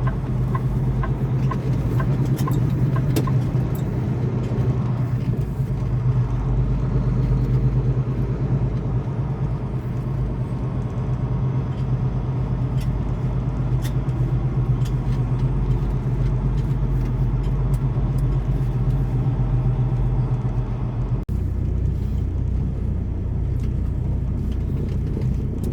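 Semi-truck diesel engine running steadily, heard from inside the cab while the truck moves slowly. About 21 seconds in the note breaks off abruptly and carries on lower.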